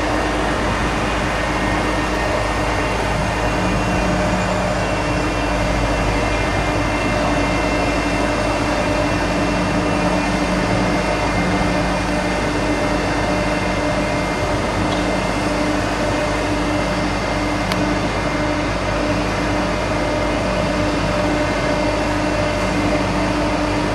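Heavy construction machinery running steadily: a continuous engine drone with several held whining tones, unchanging throughout.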